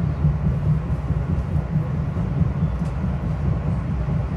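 Metro-North Hudson Line commuter train running at speed, heard from inside the passenger car: a steady low rumble of wheels and running gear under an even rushing noise.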